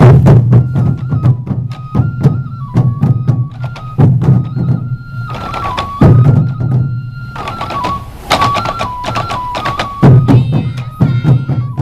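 Sansa odori festival music: a group of taiko drums beating heavily in repeated loud flurries, under a bamboo flute melody that steps between a few high notes.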